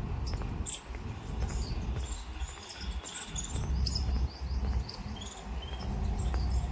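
Small birds chirping: scattered short high calls and a quick trill of repeated notes, over a steady low rumble.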